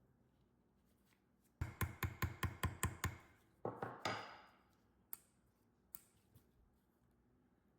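A quick run of about eight sharp clicks, some six a second, then a few heavier knocks trailing into a short scrape, and two single clicks a little later.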